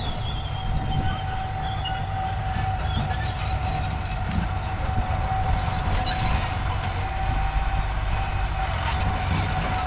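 Heavy diesel machinery running steadily, a low engine rumble under a constant high whine.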